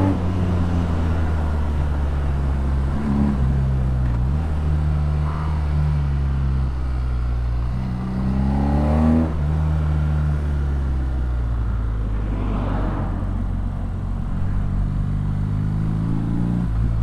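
BMW R nineT's 1170 cc boxer twin with an Akrapovic exhaust, heard while riding. The engine note climbs in pitch twice, about three seconds in and again about eight seconds in, dropping back after each climb, then holds at a steady cruise for the last few seconds.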